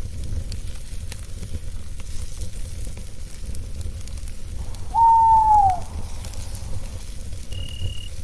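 Campfire crackling over a steady low rumble, with a single owl hoot about five seconds in that dips in pitch at its end. A short, high, steady cricket chirp sounds near the end.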